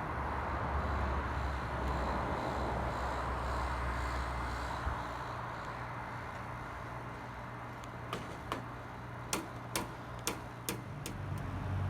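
Steady outdoor noise in a snowstorm with a low rumble underneath, then a quick irregular run of about eight sharp ticks over the last few seconds.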